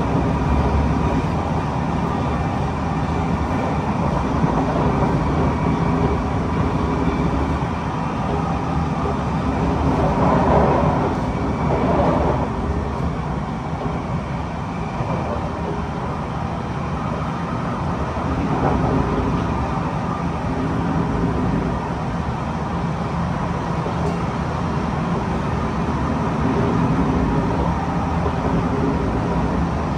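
Kawasaki C151 MRT train running between stations, heard from inside the passenger car: a steady rumble of wheels and running gear with a faint steady whine over it. The sound swells briefly about a third of the way in.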